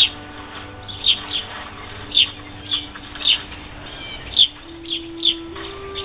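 Small bird chirping: short, sharp chirps, about one or two a second, over faint held notes of background music.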